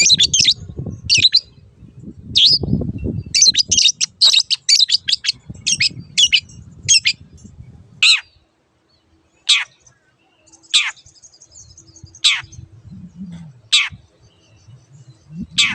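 Long-tailed shrike singing: quick runs of short, high chirping notes, then from about halfway single sharp notes sweeping downward in pitch, roughly one every second and a half. A low rumble sits underneath during the first half.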